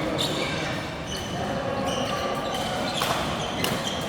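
Play on an indoor court: sharp hits about three seconds in, twice in quick succession, among short high squeaks.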